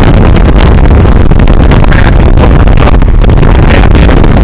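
Fishing boat under way, its engine and hull noise running steadily under heavy wind buffeting on the microphone. Loud and constant, with no distinct events.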